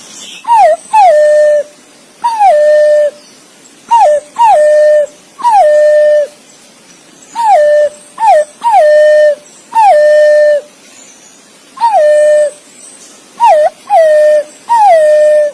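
Green pigeon (punai) calling: a series of loud whistled notes, each sliding down and then held, about a dozen of them, some coming as a short note followed by a longer one.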